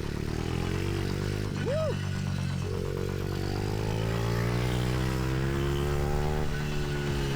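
Pit bike engine running under the rider, climbing steadily in pitch as it accelerates for several seconds, then easing off near the end. A brief rising-and-falling chirp comes about two seconds in.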